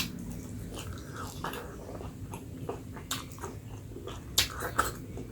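A person chewing and biting food close to the microphone, with sharp clicks and crunches scattered through, the loudest at the start and a little over four seconds in.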